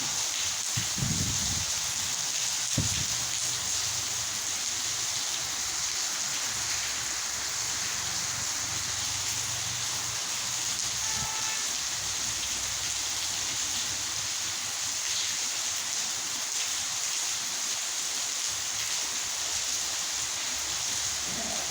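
Torrential rain falling steadily, a continuous even hiss. A few brief low bumps come in the first three seconds.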